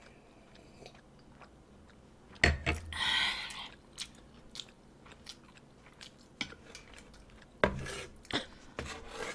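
Close-miked eating sounds: quiet chewing and mouth clicks, with a sharp knock of tableware about two and a half seconds in and a few clicks of a wooden spoon on a metal dish near the end.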